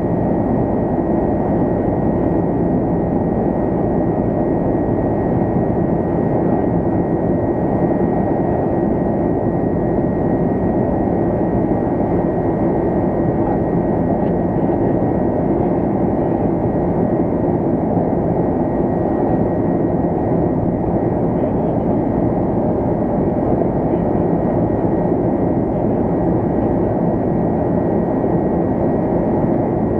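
Steady cabin drone of an Airbus A330-200 in its climb: jet engine and airflow noise, even and unbroken, with a thin steady whine above it.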